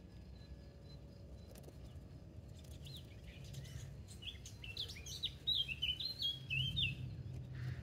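A songbird singing a quick run of high chirping notes that starts about three seconds in and is loudest in the second half, over a low steady background rumble.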